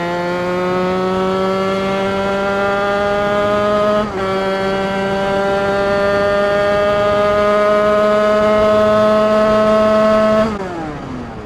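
Two-stroke 50 cc motorcycle engine bored out with an 80 cc MHR Team kit and a Bidalot expansion-chamber exhaust, held at high revs under full throttle. The pitch climbs slowly, dips for an upshift about four seconds in, and climbs again. Near the end the throttle is closed and the revs fall away.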